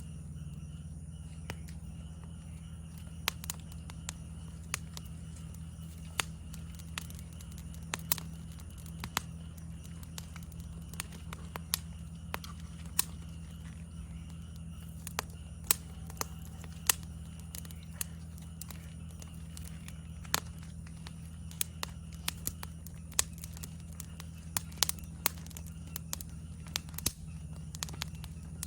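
Wood fire in a fire stand crackling, with irregular sharp pops, over a steady low hum and a faint, steady high chirring of insects.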